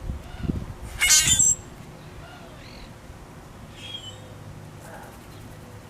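A bird gives one loud, harsh call lasting about half a second, followed by a few faint short chirps. Low thumps of the camera being handled are heard at the start.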